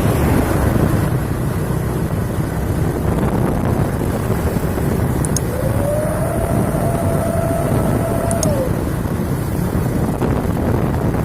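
Heavy truck running with a steady low rumble and wind buffeting the microphone. About five seconds in, a single held howling tone rises, holds for about three seconds and falls away: the whistle of the truck's 'serigala' (wolf) howling exhaust.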